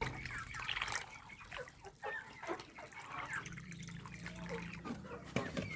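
Water dripping and splashing in a container, in scattered small plinks, as the chickens' water container is emptied and cleaned.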